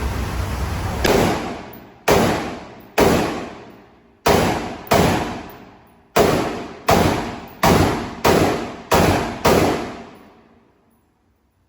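Eleven semi-automatic gunshots fired one at a time at an uneven pace, roughly one a second, each followed by a long echo. Before the first shot there is a steady hiss.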